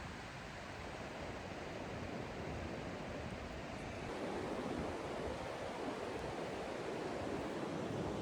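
Ocean surf washing onto a beach: a steady rushing that swells a little about halfway through.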